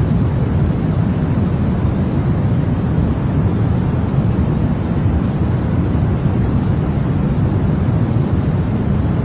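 Continuous sleep-aid noise for babies: a steady, even hiss with no pattern or pitch, its weight deep in the low end, so it sounds more like a muffled rumble than a bright hiss.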